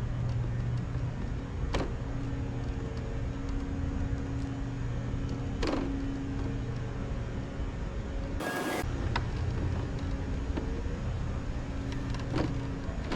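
Steady mechanical hum with a few faint clicks, and a short hiss about eight and a half seconds in.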